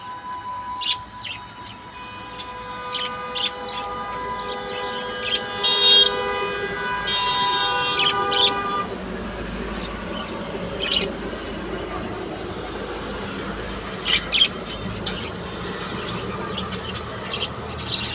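Small birds chirping in short bursts, over a long steady horn-like chord of several tones that stops about eight and a half seconds in and gives way to a broad rushing noise.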